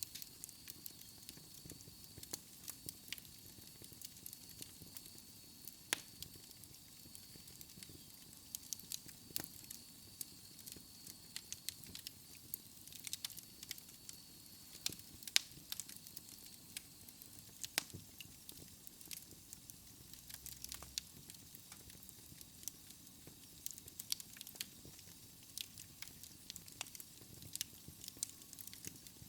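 Wood fire burning in a fireplace: irregular sharp crackles and pops over a soft steady hiss. A faint high whistle runs through roughly the first two-thirds and then fades out.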